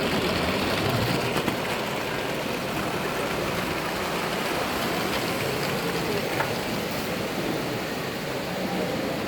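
Miniature railway train running, a steady rumbling noise without a clear beat.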